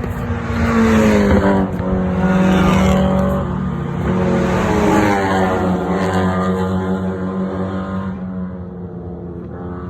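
Race car engines at speed, their pitch rising and falling through several runs and gear changes. The sound is loudest in the first half and eases off near the end.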